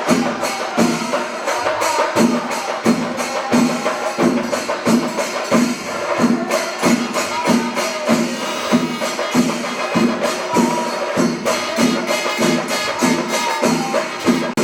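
Kerala temple percussion ensemble, chenda drums with ilathalam hand cymbals, playing a steady beat of about two strokes a second.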